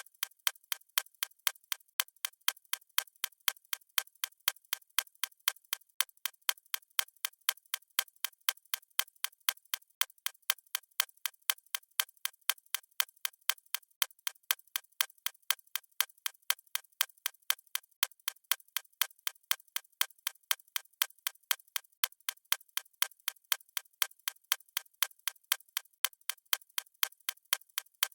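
A clock ticking steadily: sharp, even ticks several times a second, unchanging throughout.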